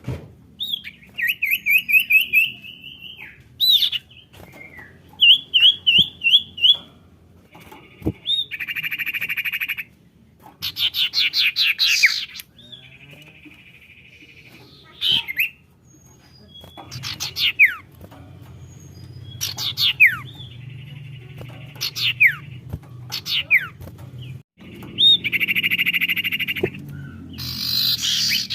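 Sirtu (cipoh) bird calls played as a lure: varied phrases of quick repeated chirps, harsh buzzing rattles and sharp falling whistles, one after another with short pauses.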